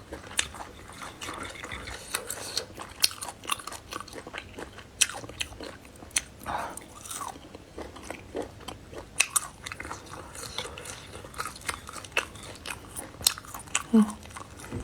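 A person chewing and biting into chicken gizzards that have been crisped in an air fryer and are a little dry, close to the microphone: irregular crunchy bites and chewing clicks.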